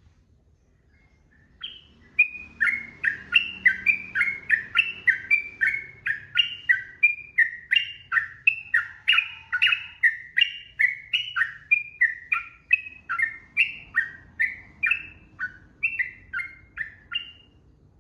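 Yellow-vented bulbul (trucukan) singing one long unbroken run of quick, bubbly down-slurred notes, about three a second, starting about two seconds in and stopping shortly before the end.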